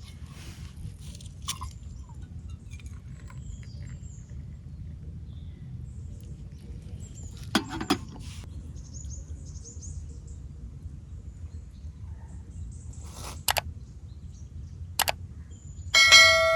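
Steady low outdoor rumble with a few sharp knocks. About a second before the end comes a loud clang of struck metal that rings on in several clear tones.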